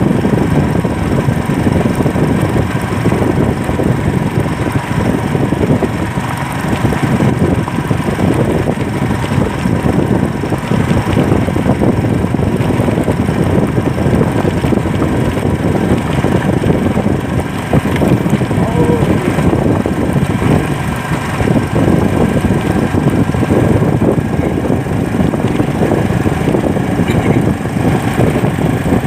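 Motorcycle engine running steadily while riding on the road, with road and wind noise.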